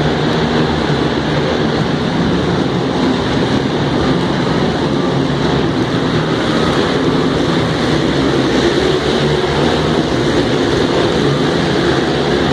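Monster truck engines running loud and steady, a dense engine drone filling an arena.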